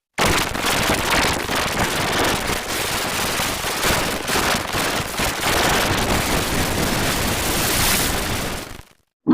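Loud, dense crackling noise, like heavily distorted audio, starting abruptly and cutting off about a second before the end.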